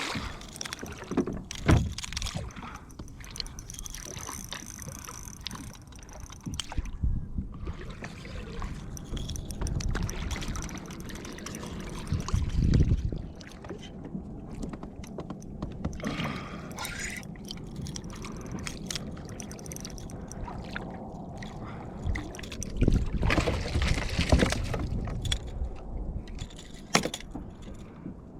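Water splashing and lapping against a kayak, with occasional knocks and rattles from gear being handled in the boat.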